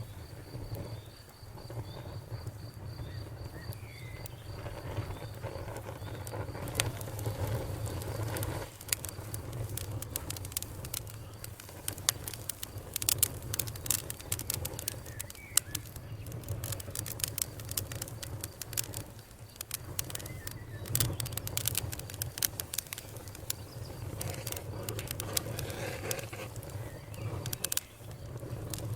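Campfire crackling, with many sharp pops and snaps that come thickest through the middle, over a steady low rumble. A high, steady insect trill runs for the first six seconds or so.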